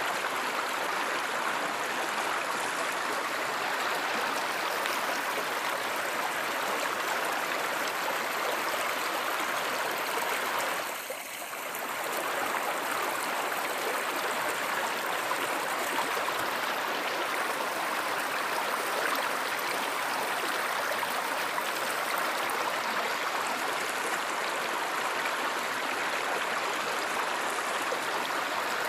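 Stream water flowing steadily, a continuous rushing and trickling, with a brief dip in level about a third of the way through.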